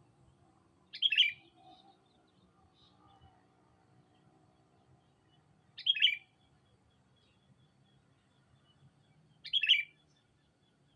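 Sooty-headed bulbul giving three short, loud calls a few seconds apart, with a few faint chirps before the first.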